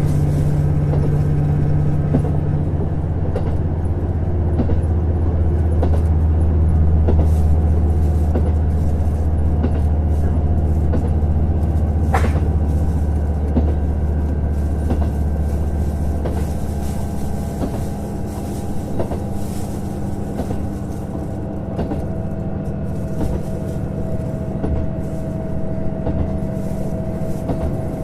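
JR Hokkaido KiHa 150 diesel railcar running along the line, its wheels clicking over the rails. The low engine drone is strong at first and fades about halfway through, leaving a quieter steady running hum.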